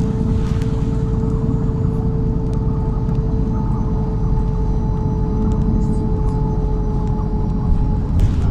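MAZ-103 city bus running along the road, heard from inside the cabin: a steady low rumble with a steady whine over it, and a couple of brief knocks or rattles near the end.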